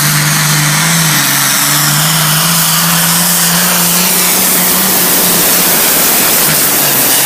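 Pulling tractor's engine at full throttle during a hook, dragging the sled down the track in its highest gear. It runs loud at a steady pitch that dips slightly near the end.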